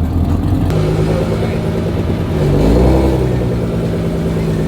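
A car engine running with a steady low note, blipped once about two seconds in so its pitch rises and falls back.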